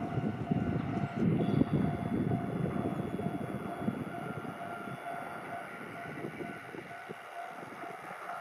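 Train running: a continuous low rumble with a steady high whine over it, loudest in the first few seconds.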